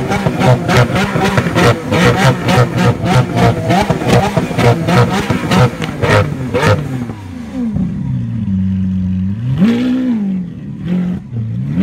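Lamborghini Aventador's 6.5-litre V12 running at a fast, pulsing idle, about four pulses a second. About seven seconds in it drops to a lower, steady idle, then gives one quick blip of the throttle, rising and falling in pitch, about ten seconds in.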